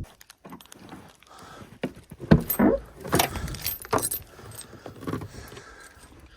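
Handling noises: small metallic rattles and clicks, like keys or loose hardware being jangled, with a sharper knock a little over two seconds in.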